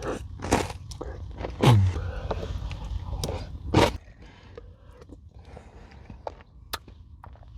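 Close-up chewing of a crunchy granola bar with yogurt, with loud, crackly crunches for about the first four seconds. After that it goes quieter, with only scattered small clicks and smacks.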